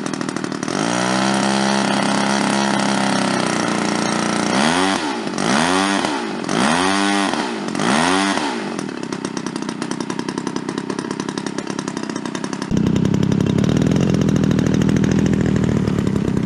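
EME60 60cc gas engine of a giant-scale RC warbird turning a three-blade propeller. It runs steadily, then is revved up and back down four times in quick succession before settling back to a steady run. Near the end the sound abruptly becomes louder and fuller.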